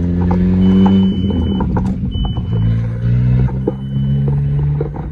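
Car engine running loud, its pitch stepping up and down several times. A high electronic chime sounds three times, about a second each.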